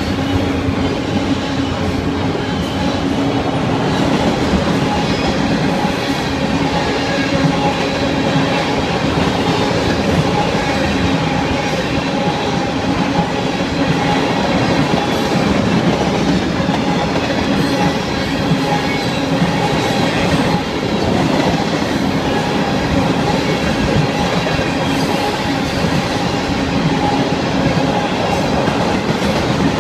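Freight train of autorack and tank cars rolling past on steel wheels over the rails, a steady, loud rumble of passing cars.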